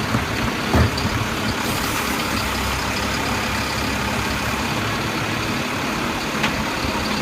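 Automated side-loader garbage truck's diesel engine running steadily, with a single knock about a second in.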